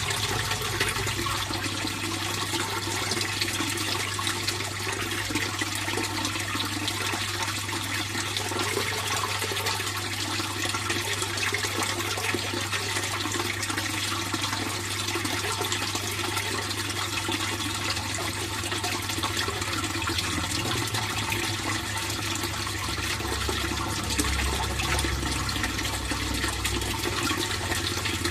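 Fish pond water flowing steadily, a continuous splashing rush, with a low steady hum underneath.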